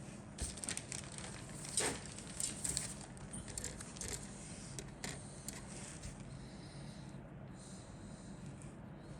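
Plastic model kit parts being handled: light clicks and rustling from sprues and bags, busiest in the first few seconds, over a steady low hum.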